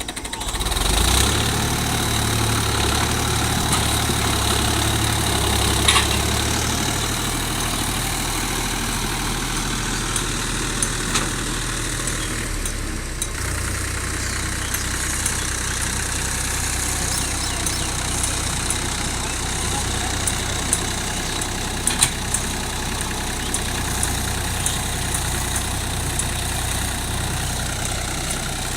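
A motor running steadily with a low engine-like hum that starts about a second in and drops slightly in pitch about halfway through, with a few faint clicks over it.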